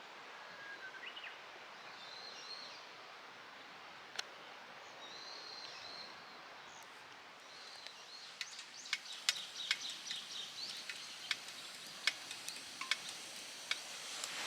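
Birds calling faintly over a steady outdoor background. From about eight seconds in comes a run of sharp clicks and cracks.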